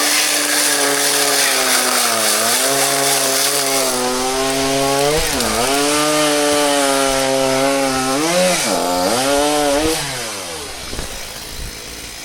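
Two-stroke chainsaw cutting wood at high revs, its pitch dipping three times as the chain bites under load. About ten seconds in the throttle is released and the engine winds down quieter.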